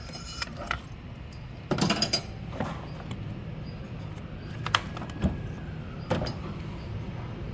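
Hand tools and metal parts clinking and knocking during repair work: a short cluster of clatter about two seconds in, then single knocks a few seconds later, over a steady low hum.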